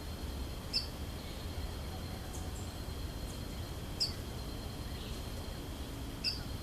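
Small birds giving short, sharp call notes: three clear chips a few seconds apart, with fainter high chips between them. Under them runs a steady high-pitched whine and a low rumble.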